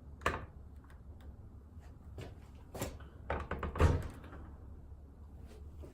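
A dishwasher being opened and its inside handled: a knock just after the start, then a run of clunks and rattles, the loudest a thud near four seconds in.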